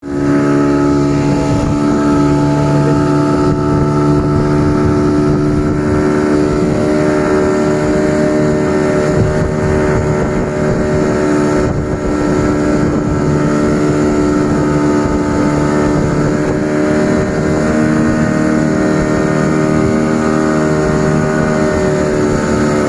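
Motorboat engine running steadily at an even pitch, towing a banana boat.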